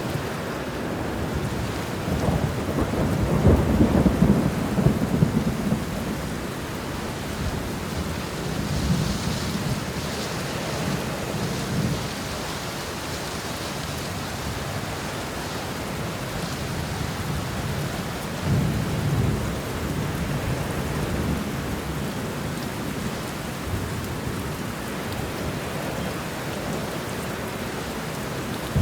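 Steady heavy rain with rolls of thunder: a long rumble swells about three seconds in, with weaker rumbles near ten seconds and again around nineteen seconds.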